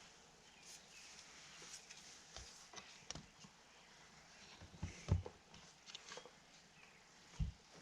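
Scattered light knocks and clicks of hand work on a truck vent window assembly, with two firmer knocks about five seconds in and near the end.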